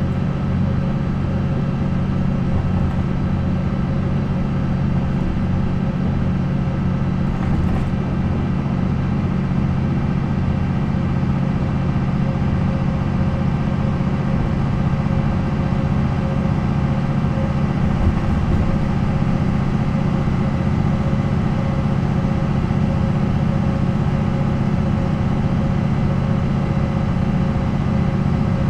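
MAN NL 263 city bus's D28-series diesel engine running steadily, with an even low hum and no revving up or down.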